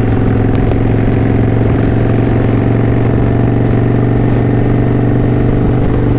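Motorcycle V-twin engine of a 2009 Kawasaki Vulcan VN900 Classic LT running steadily while riding, its pitch holding level.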